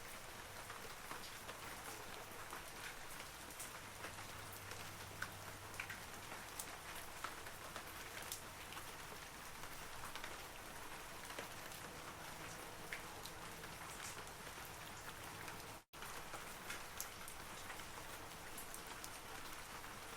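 Steady rain falling on forest trees, with many scattered individual drops ticking out above the patter. The sound cuts out for an instant about sixteen seconds in.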